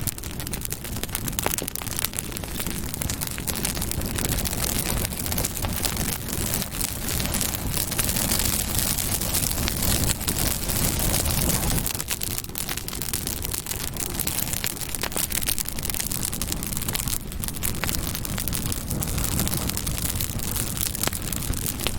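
Campfire burning steadily: a continuous low rumble of flames with frequent small crackles and pops throughout.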